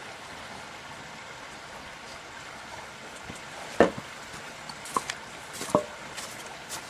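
Steady background hiss with a few sharp knocks, the loudest a little past halfway and two lighter ones soon after.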